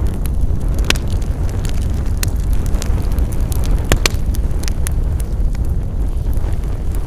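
Wood fire burning: a steady low rumble of flames with frequent sharp crackles and pops, the loudest pops about one and four seconds in.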